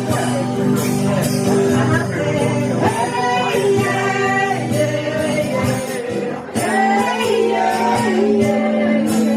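Live band music: held low notes under a bending melody line, with a tambourine jingling along in the rhythm.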